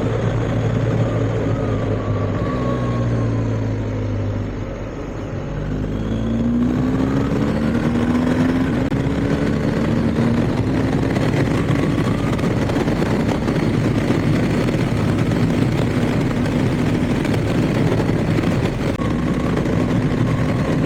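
BMW R1250GS's boxer-twin engine running on the road under wind and road noise; the engine eases off about four seconds in, then picks up and pulls again.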